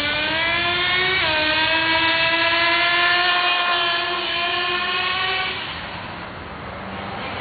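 Small motor of a Salvat "Big" model monster truck running with a high, steady whine that rises slowly in pitch, with a step in pitch about a second in. It fades away over the last couple of seconds.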